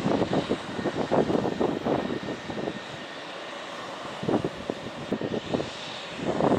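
Mi-17 military helicopters' main rotor chopping over the whine of their twin turboshaft engines. The sound eases off in the middle and grows louder again near the end.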